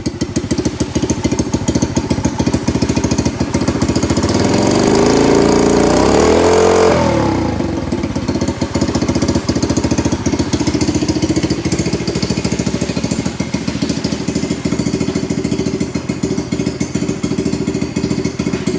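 Honda Chaly 50 (CF50) small four-stroke single-cylinder engine idling through an aftermarket muffler with a steady, even beat. About four seconds in it is revved up, then it drops back to idle about seven seconds in.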